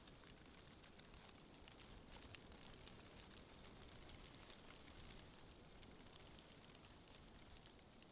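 Faint ambient wind: a soft, steady hiss with scattered light ticks.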